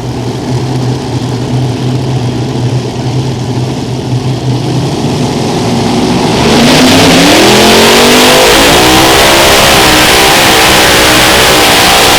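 Unlimited modified pulling tractor's engines running at a steady low pitch, then, about six and a half seconds in, revving sharply up to full throttle and staying very loud as the tractor launches into a pull.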